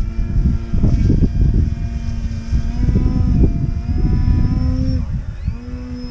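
Radio-controlled Cap 232 model aerobatic plane's motor and propeller droning in flight, the pitch sliding down and back up as it manoeuvres. Heavy gusting wind buffets the microphone with a loud, uneven low rumble.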